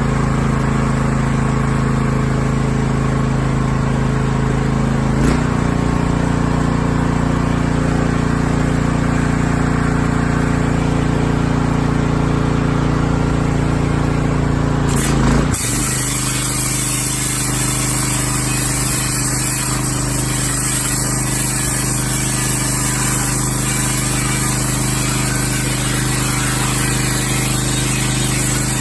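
A 3,800 PSI pressure washer running steadily; about halfway through, its wet sand-blasting nozzle opens up and a loud, steady high hiss of spray joins the running note and holds to the end.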